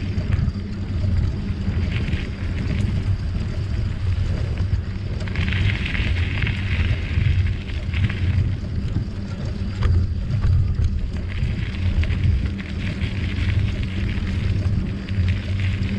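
Riding noise from a moving bicycle: wind buffeting the microphone in a steady low rumble, with the crackling hiss of tyres rolling over the trail swelling and fading every few seconds.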